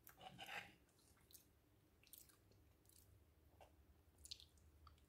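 Faint close-up eating sounds of sticky glutinous rice cake: a short scraping burst as a fork cuts into it in the bowl, then soft wet mouth clicks while it is chewed.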